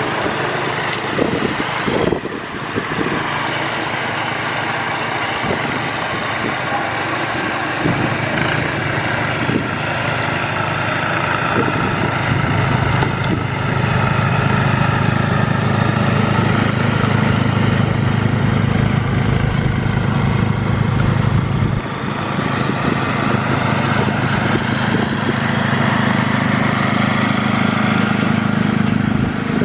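Engine running steadily, growing louder about eight seconds in and dipping briefly about twenty-two seconds in before picking up again.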